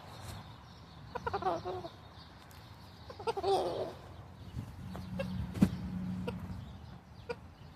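Rooster making two short clucking calls, about one and a half and three and a half seconds in, with a few light knocks later on.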